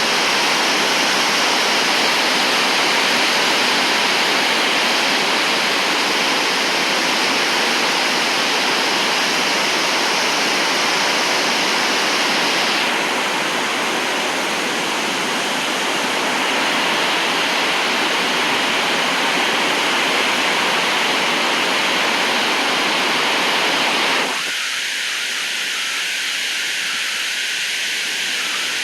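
Heavy rain pouring down steadily. About 24 seconds in, the sound abruptly thins to a high hiss.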